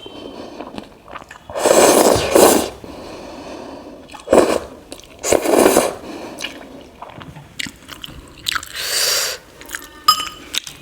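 Close-miked mukbang eating of vegetable noodles and momos: chewing and mouth sounds, with four louder bursts of eating noise spread through and a few short clicks.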